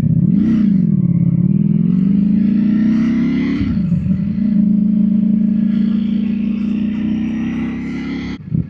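Naked superbike engine accelerating hard. The revs climb for about three seconds, dip at an upshift, then climb again more slowly in the next gear until the throttle is shut suddenly near the end.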